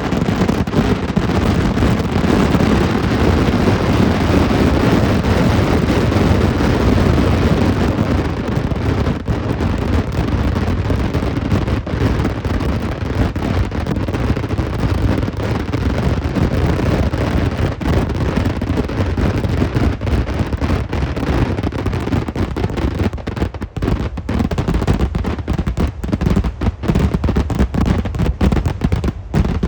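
Vedikkettu fireworks: a dense barrage of firecracker bangs so rapid they merge into one continuous noise, thinning over the last several seconds into separate sharp bangs.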